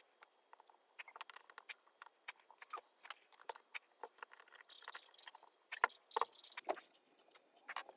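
Irregular light clicks and taps of small hard objects being handled, several a second, growing busier and louder about five seconds in.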